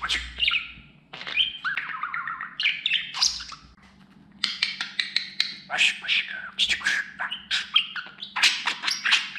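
Budgerigar chattering: rapid chirps, squawks and warbling notes with a short pause about four seconds in.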